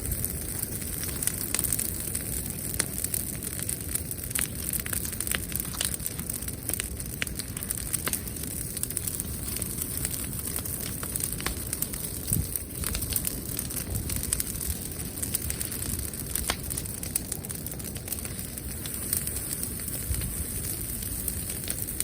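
Wood bonfire crackling with scattered sharp pops, over a steady low rush and a constant high hiss.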